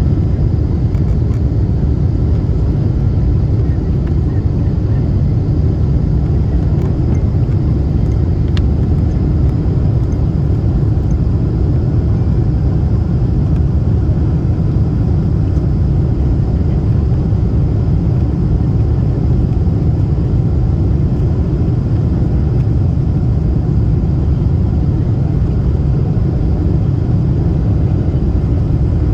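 Steady low rumble of a Lufthansa Boeing 747-8 airliner heard on board, the engines and airflow running evenly without rising or falling.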